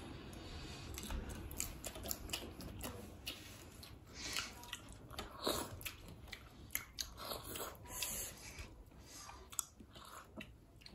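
People chewing and biting food, with many irregular short clicks and smacks of the mouth.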